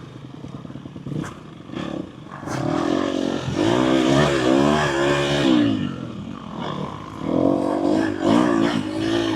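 Four-stroke dirt bike engine riding a rough trail, the revs rising and falling with the throttle and loudest in two surges, about three seconds in and again near the end. A few sharp knocks early on from the bike clattering over rocks.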